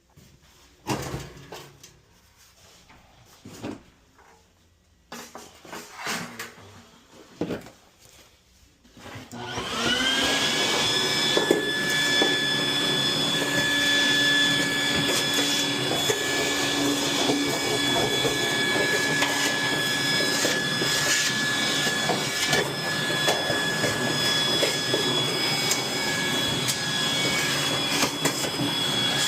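Scattered knocks and clicks of parts being handled, then about a third of the way in an electric motor switches on. Its whine rises quickly to a steady high pitch over a loud rush of air, and it keeps running.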